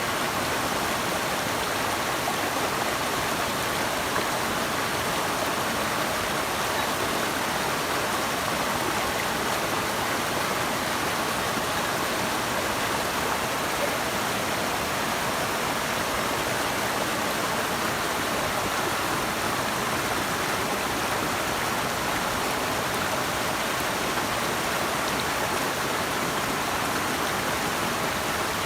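Rushing water: a steady, unbroken rush of fast-flowing water.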